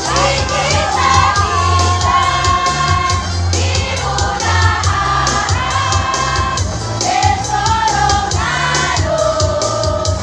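A choir singing long held notes over an accompaniment with a bass line and a steady beat.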